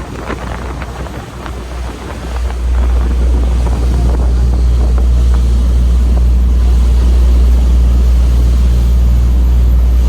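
Steady low rumble of a moving vehicle with wind buffeting the microphone, growing louder about two and a half seconds in.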